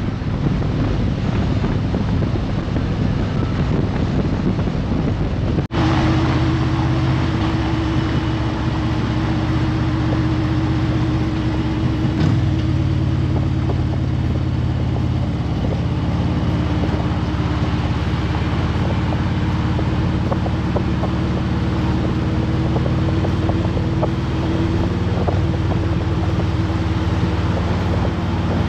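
Harley-Davidson Road Glide Limited motorcycle engine running steadily with wind rush, as when riding. There is a brief break about six seconds in, then a steady hum.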